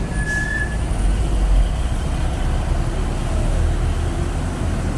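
Road traffic going past: a steady deep rumble of trucks and cars, with a brief high squeal near the start.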